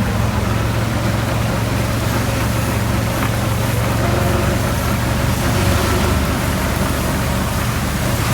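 Steady low hum of a vehicle engine running, under a constant hiss of heavy rain.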